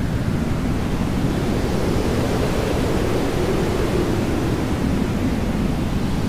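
Jet airliner engines making a steady rushing roar that swells slightly in the middle.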